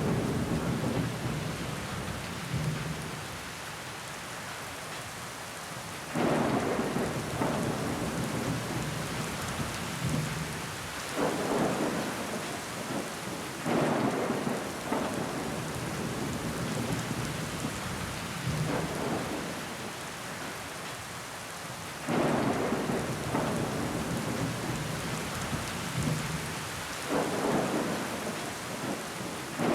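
Steady rain falling against a window pane, with water trickling down the glass. Five times, a louder, fuller surge starts suddenly and fades over a second or two.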